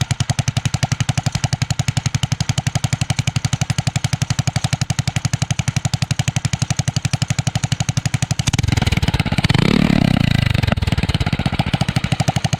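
A 212 Ghost single-cylinder four-stroke minibike engine runs steadily with the choke off, in a rapid, even firing rhythm. About two-thirds of the way in it grows louder for a couple of seconds, then settles back to its steady run.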